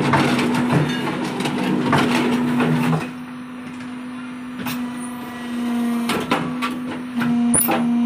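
A machine running with a steady hum, with clattering for the first few seconds and a few sharp knocks later on.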